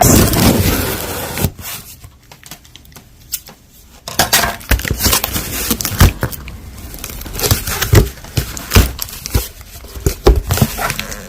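Packaging being handled as a shipping box is opened: crinkling and tearing, loudest in the first second or so, then quieter for a moment, then scattered clicks and knocks with more rustling.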